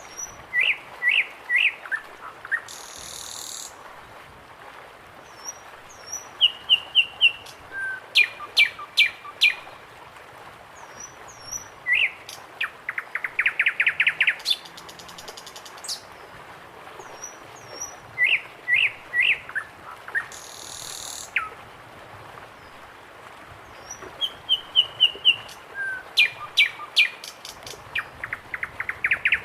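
Birds singing: a repeated phrase of loud, clear whistled notes ending in a fast trill recurs every six seconds or so, with fainter high chirps from other birds in the background.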